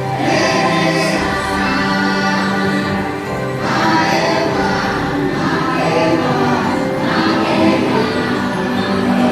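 Choral music from the ride's soundtrack: a choir singing long, held chords that change every second or two over instrumental accompaniment.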